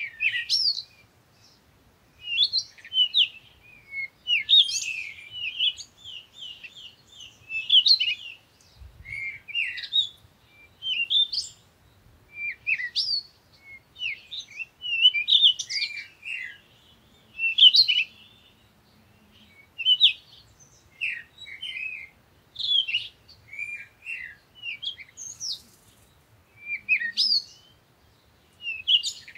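Small birds chirping in repeated quick bursts of high twittering notes, one burst every second or two with short gaps between.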